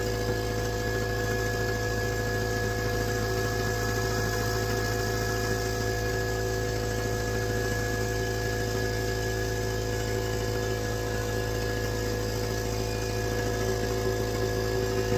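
An engine or motor running at a steady speed, with an even hum that holds the same pitch throughout.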